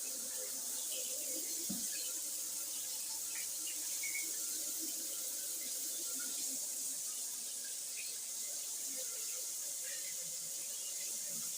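Shower head running, a steady hiss of water spray falling.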